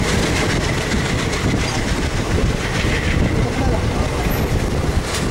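Passenger train running, heard from the doorway of a moving coach: a steady rumble and clatter of wheels on the track.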